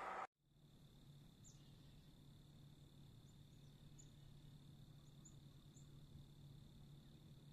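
Faint rainforest night-style ambience: a steady high-pitched insect drone with short high chirps scattered through it and a low hum underneath. A louder rushing noise cuts off abruptly at the very start.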